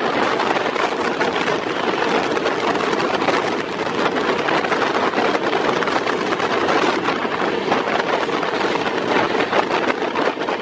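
Express passenger train running through a station at speed, heard from an open coach door: a loud, steady rush of wheel and track noise with fine rattling clatter throughout.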